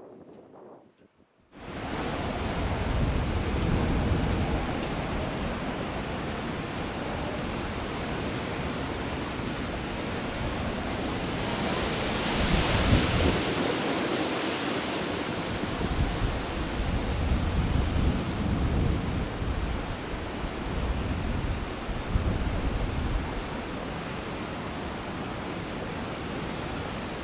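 Strong gusty wind buffeting the microphone: a heavy low rumble under a steady rushing hiss, which starts suddenly about a second and a half in and swells to its loudest about halfway through.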